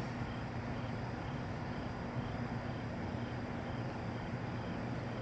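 Steady outdoor background hum with a low droning tone, and a faint high chirp repeating about twice a second.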